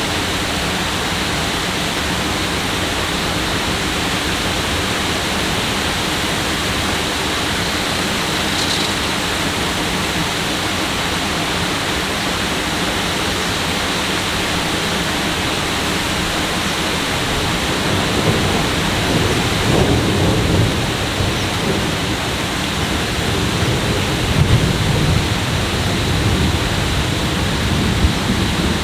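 Steady, loud hiss of heavy rain. A little past halfway, low thunder starts rumbling and swells a couple of times near the end.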